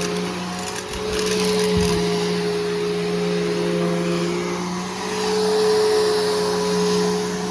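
Bissell Powerforce Helix Turbo upright vacuum cleaner running with a steady motor hum and airflow hiss, its loudness rising and falling. There are a couple of brief low thumps in the first two seconds.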